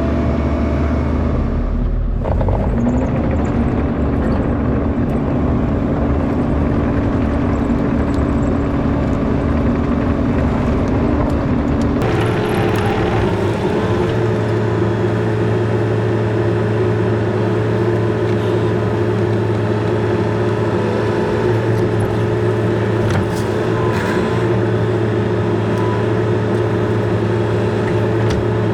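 Bobcat E42 compact excavator's diesel engine running steadily. About twelve seconds in, its note steps up to a clearly higher pitch and holds there.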